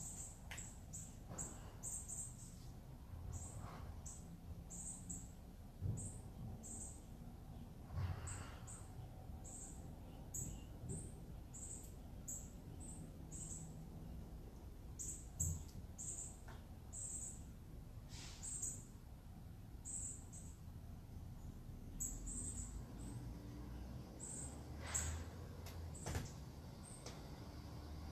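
Birds chirping: a long run of short, high chirps repeating every half second or so, faint, over a low rumble.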